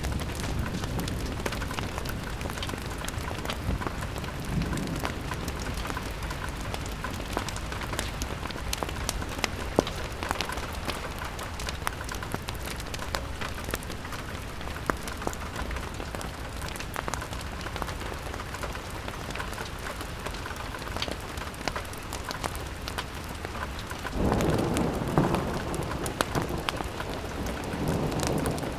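Steady rain pattering on a window pane, dotted with scattered sharp crackling clicks. A low rumble swells up near the end, like distant thunder or a wind gust.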